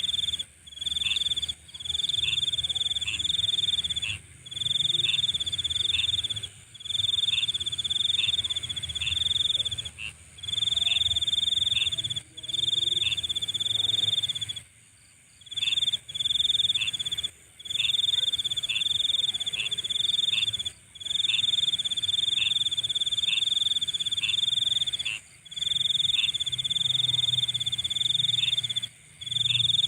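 Nighttime insect chorus: a loud, high trill that comes in phrases of one to two seconds with brief pauses, over a steady higher-pitched buzz.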